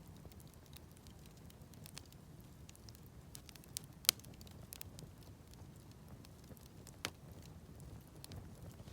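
Wood campfire crackling, with many small scattered pops and two sharper snaps, the loudest about four seconds in and another about seven seconds in.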